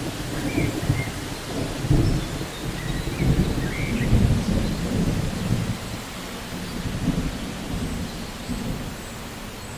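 Rain falling steadily under a long, low rumble of thunder that rolls on through the first several seconds and then fades away toward the end.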